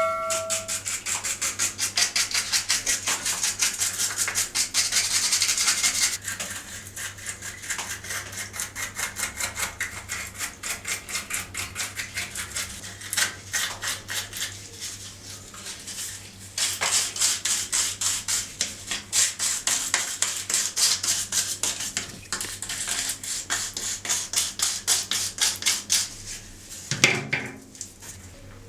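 A brush scrubbing a dirty horn in rapid back-and-forth strokes, several a second, easing off briefly now and then.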